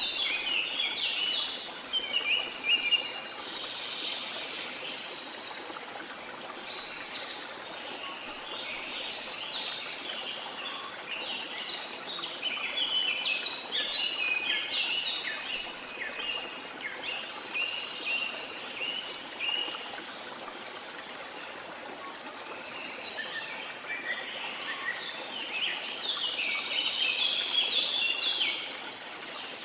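Birds singing in quick chirping phrases that come and go in bouts, over the steady rush of a waterfall.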